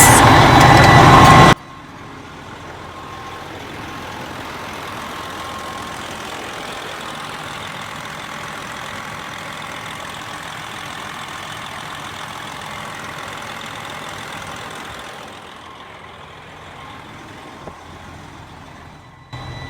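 Detroit Diesel Series 60 truck engine running at idle, having started once its leaking fuel line was replaced. It is loud for about the first second and a half, then drops abruptly to a much fainter, steady running sound.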